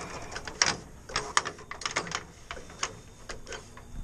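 Irregular clicks and light knocks of objects being handled, at an uneven pace, the sharpest just over half a second in and near a second and a half in.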